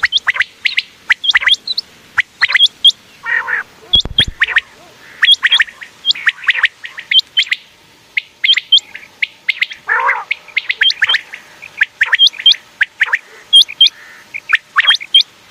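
Common quail calling: a rapid, unbroken series of short, sharp chirps, many in quick pairs, with a couple of harsher, lower calls. A brief low thump comes about four seconds in.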